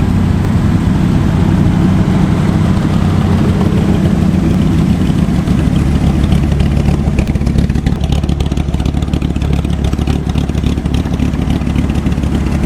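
Dodge Viper V10 running through a custom muffler-delete exhaust: a loud, steady, deep exhaust drone at an even engine speed.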